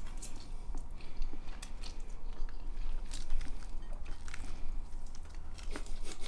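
A person chewing a mouthful of ramen noodles, with scattered short clicks, likely of a fork against the bowl.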